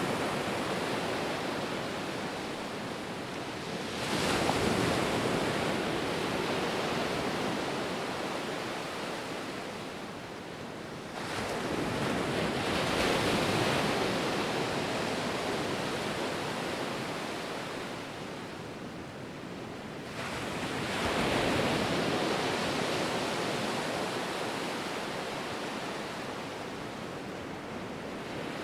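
Ocean waves breaking and washing on shore, three waves about eight seconds apart, each a sudden swell of surf noise that slowly drains away.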